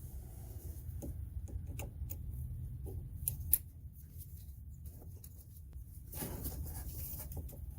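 Small clicks and scratching of plastic wiring-harness connectors and clips being handled and worked loose, with one sharp click about three and a half seconds in and a rustle of the harness near the end. A low steady hum runs underneath.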